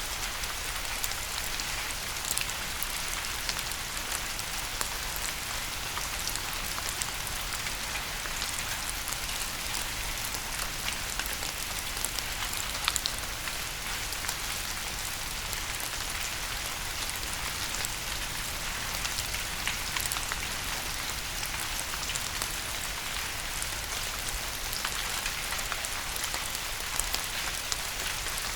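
Steady rain falling: an even hiss with many sharp, scattered drop ticks.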